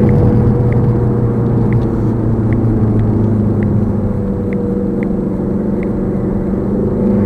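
Car engine and road noise inside the cabin, picked up by a Vantrue X2 dashcam's microphone. A small clicking from the dashcam itself repeats about once or twice a second. It is a fault of the new camera: it clicks constantly while recording and the clicks end up in its audio.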